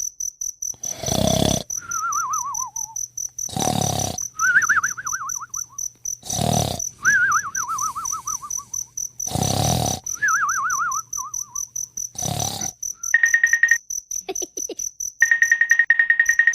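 Insect chirping, a steady, rapidly pulsing high-pitched trill, with a warbling, falling call repeated every few seconds and a loud short rushing burst about every three seconds. Near the end these give way to a steady pulsing beep-like tone.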